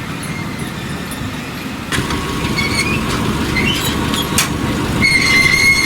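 Machinery running with a steady low rumble. About two seconds in, high metallic squealing starts: a few short squeaks, then a longer held squeal near the end.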